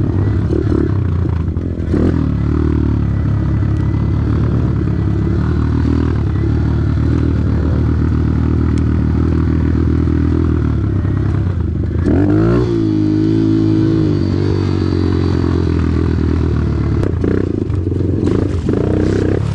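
Off-road vehicle engine running steadily under way, with a few knocks over rough ground; about twelve seconds in its pitch wavers down and back up as the throttle changes.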